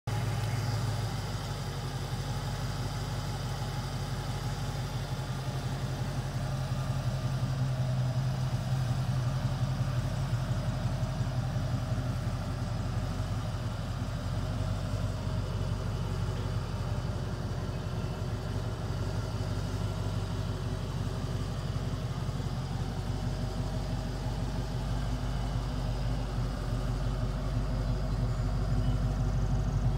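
A 1988 Ford Mustang GT's 5.0-litre V8 idling steadily with a low, even rumble, growing a little louder near the end.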